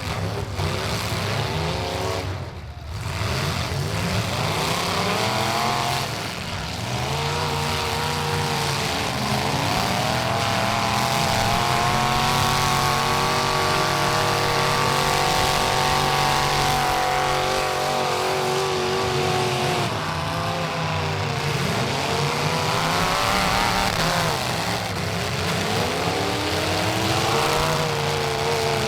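Race trucks' engines running hard in a pack, several at once. Their pitch climbs as they accelerate, holds high for long stretches, and falls back as they lift, with a brief dip about two and a half seconds in.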